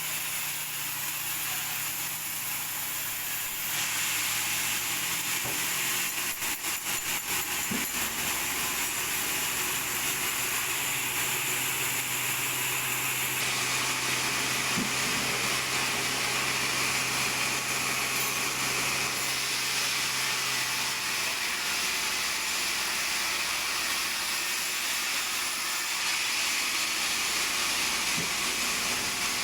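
Sawmill machinery running: a steady hissing saw cut over a low motor hum, its tone shifting abruptly a few times, with a quick rattle of clicks about six to eight seconds in.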